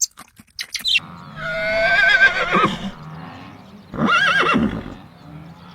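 An animal calling twice with a high, quavering voice, after a few short clicks. The first call lasts about a second and a half and falls in pitch at its end; the second is shorter.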